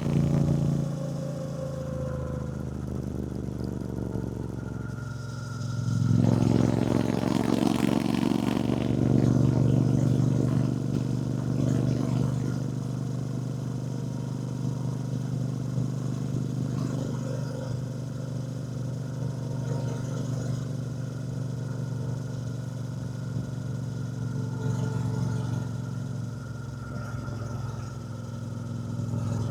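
A Triumph Bonneville T120's 1200 cc parallel-twin engine running under way on a motorcycle ride. It gets louder about six seconds in as the bike pulls harder, then settles into steady cruising.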